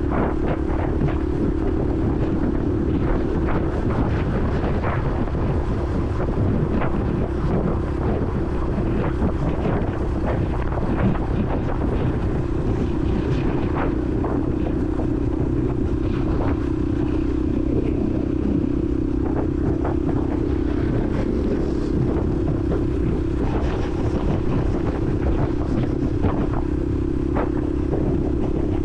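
Honda CRF150L's single-cylinder four-stroke engine running at a steady, even speed while riding, heard from a helmet-mounted camera, with many short buffets of wind on the microphone.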